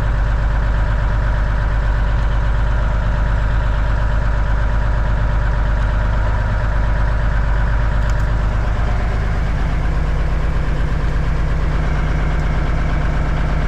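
Cummins diesel engine of a 1989 Kenworth K100E cabover running steadily at fast idle, with a slight change in its note about nine seconds in.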